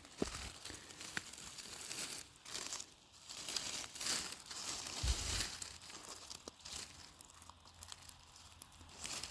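Irregular rustling and crinkling, with a low thump about five seconds in.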